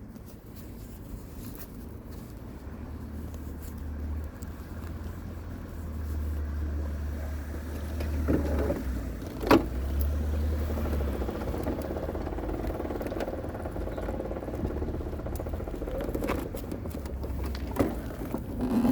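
Aprilia RS125's single-cylinder two-stroke engine idling with a steady low rumble that slowly grows louder, with a sharp click about halfway through.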